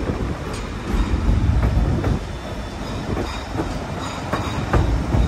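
Narrow-gauge passenger train cars rolling along the track: a steady low rumble with scattered wheel clacks and knocks, and a faint thin squeal from the wheels.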